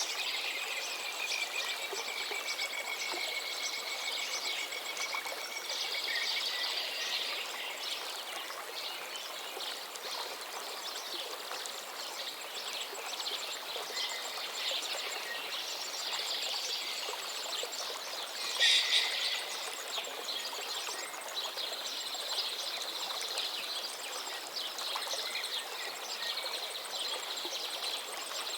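Songbirds chirping and calling over the steady rush of a stream, with one louder, sharper call about two-thirds of the way through.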